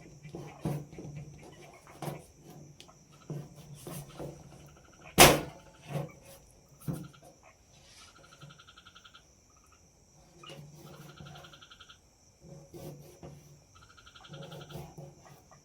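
Insects chirring steadily, with three runs of rapidly pulsing animal calls. Scattered knocks sound throughout, the loudest about five seconds in.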